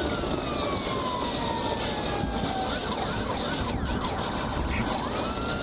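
Police car siren wailing, its pitch falling slowly over the first few seconds and rising again near the end, over a steady rumble from the moving car.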